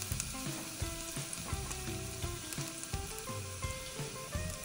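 Chopped onion and whole spices frying in hot ghee in a small saucepan: a steady sizzle with scattered crackles, as crisp fried onions are added.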